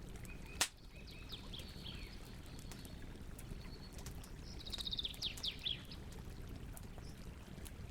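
Campfire crackling, with scattered small pops and one loud pop about half a second in, over a steady low rumble. Songbirds chirp above it, with a quick run of falling notes about five seconds in.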